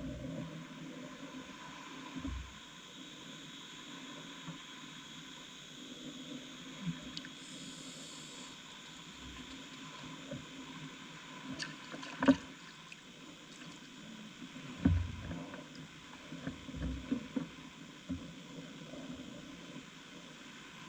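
Quiet river-side background of moving water, broken by scattered knocks and thumps. The sharpest knock comes about twelve seconds in, a heavier thump about fifteen seconds in, and a few smaller thumps follow soon after.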